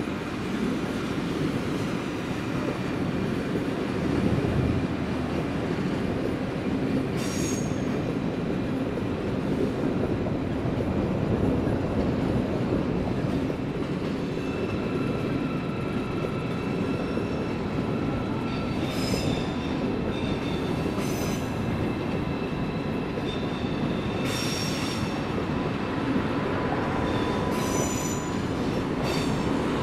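Electric passenger trains, an ICE high-speed set and an SBB train, roll slowly over curving tracks and switches with a steady rumble. Wheel squeal comes and goes: one short squeal early on, then several high, sharp squeals in the second half.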